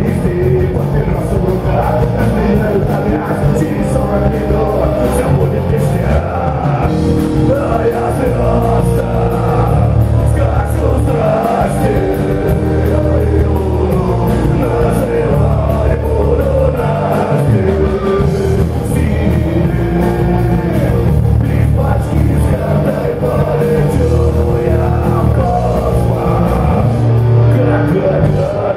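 Live rock band performing a song, with vocals over electric guitar, bass and drums.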